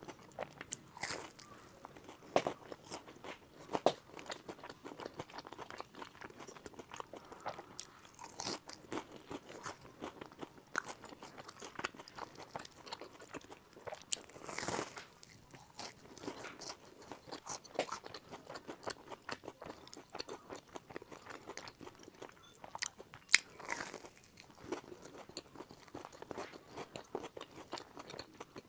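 Close-miked biting and chewing of sesame-crusted glutinous pumpkin cakes: the seeded crust crunches and crackles under the teeth, with wet chewing in between and a few sharper crunches.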